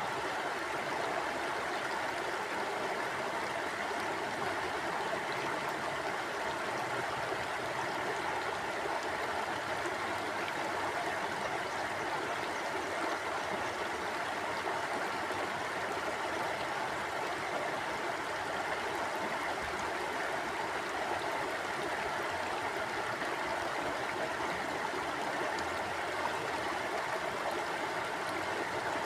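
A shallow river or stream flowing steadily, its water rushing and burbling over stones in a constant, even rush.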